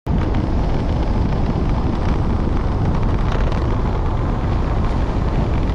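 Wind buffeting the microphone while riding a motor scooter, a loud, steady low rumble with the scooter's running and scattered knocks from the road surface mixed in.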